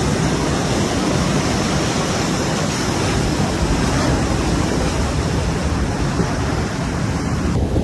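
Heavy storm surf and wind from Cyclone Alfred: a steady, even rushing noise with no distinct events.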